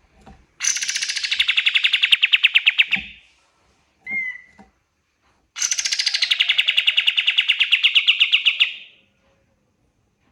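Kapas tembak songbird singing: two long, fast rattling trills of rapidly repeated high notes, each lasting about three seconds, with a short single call between them.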